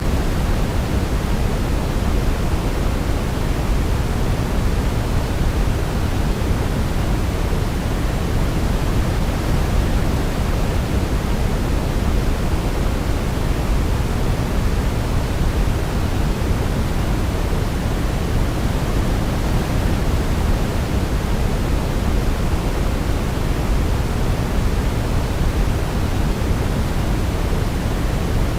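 Steady, unchanging sleep noise, a constant rushing hiss weighted toward the deep end like pink noise, with no melody to be heard.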